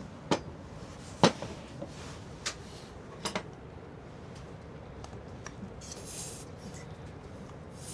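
Small hard objects being handled: a few sharp clinks and knocks in the first three and a half seconds, then a short hissing rustle about six seconds in.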